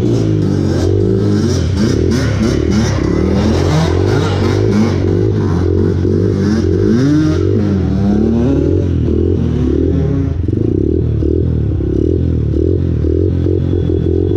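Small off-road engine being ridden, revving up and falling back over and over, its pitch rising and falling throughout.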